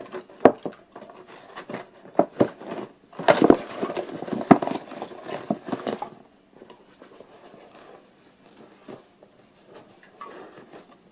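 Irregular sharp taps and knocks of objects being handled, busiest over the first six seconds, then only faint small-room noise.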